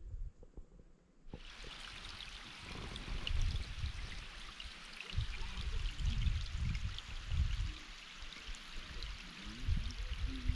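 Running water, a steady hiss that starts suddenly about a second in, with low rumbles of wind or handling on the microphone.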